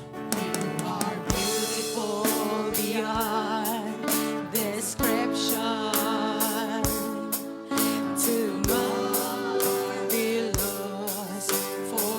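A live gospel worship band playing, with drums keeping a steady beat and voices singing held notes with vibrato.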